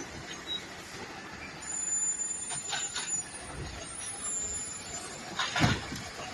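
Garbage truck running, with a thin high-pitched squeal from about a second and a half in to five seconds in, and a loud knock near the end.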